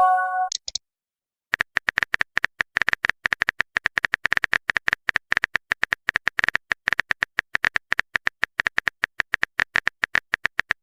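Typing sound effect: a fast, uneven run of short keyboard clicks lasting about nine seconds, after a brief message-alert chime at the very start.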